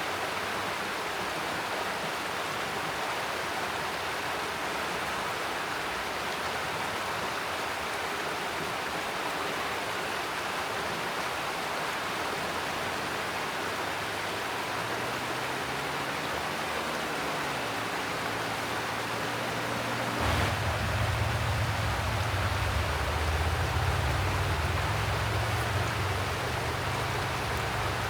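Mountain stream rushing steadily over rocks. About two-thirds of the way through, a low rumble comes in under the water and carries on to the end.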